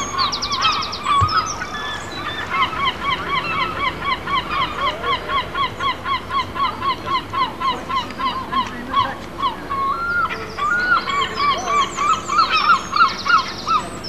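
Birds calling: one bird gives a long, even series of repeated calls, about three a second, with short high trills and chirps from other birds near the start and near the end.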